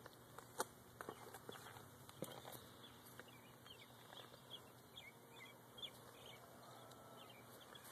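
Near silence, with faint scattered bird chirps and a few soft clicks.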